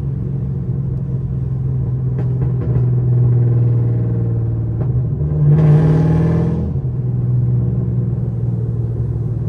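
Chevrolet Camaro SS V8 idling steadily after a cold start, a deep rumble. About halfway through, the engine note rises briefly and then settles back.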